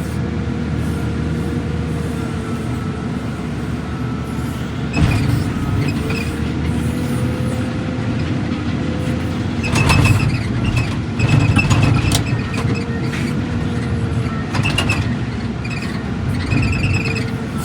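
Diesel engine and hydraulics of a heavy demolition machine working, heard from inside its closed cab. A hydraulic whine slowly rises and falls, and sudden cracks, crunches and squeals come as a house is smashed, loudest around ten to twelve seconds in.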